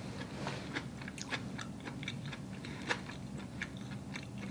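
Close-miked mouth sounds of a person chewing a mouthful of spaghetti: a run of soft, irregular clicks and smacks, one slightly louder about three seconds in.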